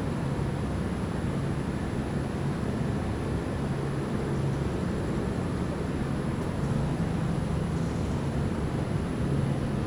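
Steady rushing noise of a thunderstorm's wind and rain.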